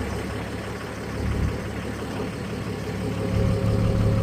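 An engine idling steadily, a low even hum that grows a little louder about three seconds in.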